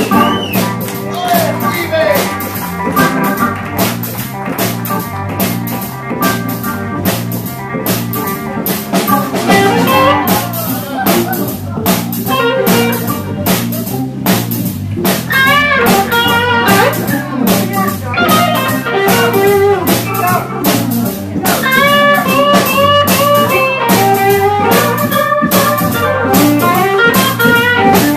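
Live blues-rock band playing an instrumental break: a lead guitar plays a solo with bent notes over a steady drum-kit beat and bass line.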